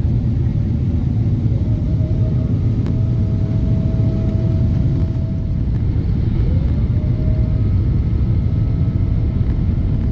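Steady low rumble of a moving vehicle heard from inside, with a faint whine above it that glides up in pitch about six and a half seconds in.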